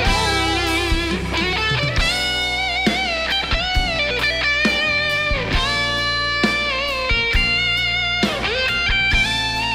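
Live band playing an instrumental break: an electric guitar lead with bent and wavering notes over bass and a steady drum beat.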